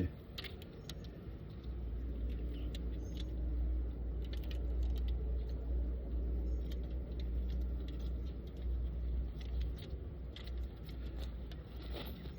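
Honeybees buzzing around an opened hive, sounding riled, with small scattered clicks and rattles of the hive being handled over a low steady rumble.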